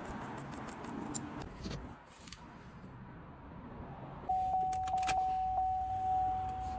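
Light metallic clicks of hand tools. About four seconds in, the 2006 Silverado's 4.8 V8 starts and runs, with a single steady electronic tone sounding over it.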